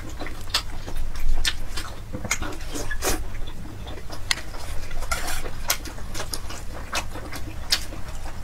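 Close-miked eating: chewing a mouthful of glass noodles and stewed pork, with irregular wet mouth smacks and sharp clicks.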